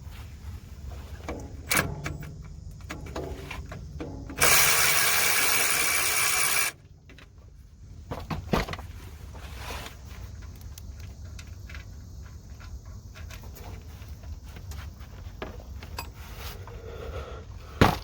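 Small cordless impact wrench running in one burst of about two seconds, backing out a 10 mm starter mounting bolt, with scattered clicks and knocks of hand tools before and after.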